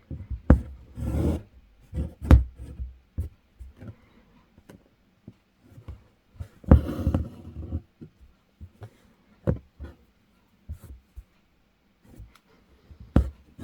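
Hand embroidery: sharp pops of a needle pushed through fabric and the rasp of embroidery floss drawn through it, twice drawn out for about a second.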